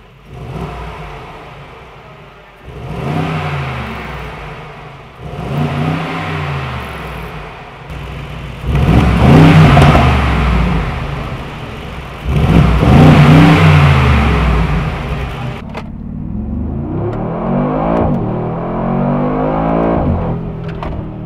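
Mercedes-AMG G63's twin-turbo V8 through an Akrapovic exhaust, revved four times. Each rev rises and falls in pitch, and the third and fourth are the loudest. In the last few seconds it settles into a lower, steadier run with slowly drifting pitch.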